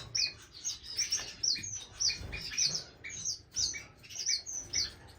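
A group of small aviary finches chirping constantly: many short, quick, down-slurred high chirps, several a second and overlapping from more than one bird.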